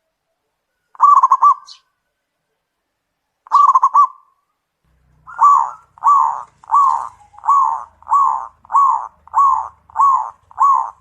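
Zebra dove (perkutut) cooing. Two short, rapid stuttering phrases come first, then from about halfway in a steady run of about nine evenly spaced coo notes.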